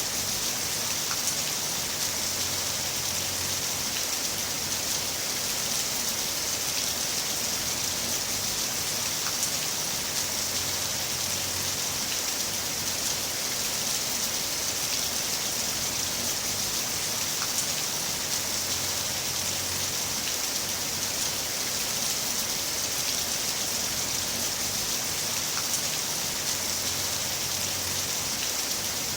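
Heavy rain falling steadily: an even hiss with the odd faint tick of single drops.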